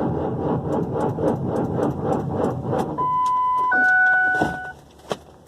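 Caterpillar C7 diesel cranking slowly on the starter in the cold, an even pulse of about four to five compression strokes a second, without firing: a failed cold start. About three seconds in the cranking stops and two steady electronic warning tones sound in turn, the second higher, followed by a single click.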